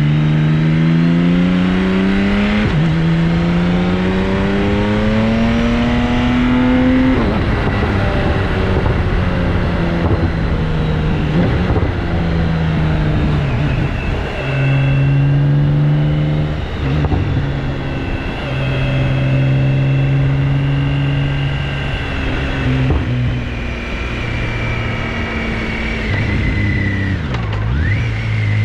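BMW K1600GTL's inline-six engine running through an aftermarket Hattech exhaust muffler under way. It revs up, drops at a gear change about two and a half seconds in, revs up again to a second shift at about seven seconds, then runs fairly steadily, easing off briefly near the end.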